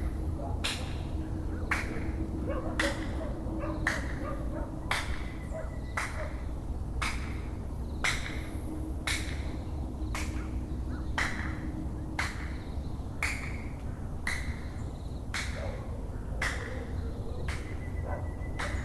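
A bird repeating a sharp call about once a second, evenly and without a break, over a steady low background rumble.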